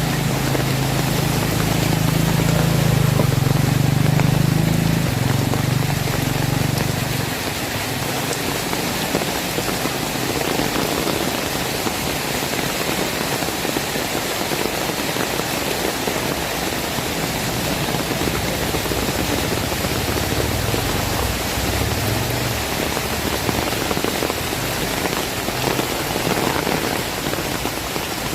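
Heavy rain falling steadily. A low engine hum, likely a passing vehicle, runs under it for the first several seconds and returns briefly about twenty seconds in.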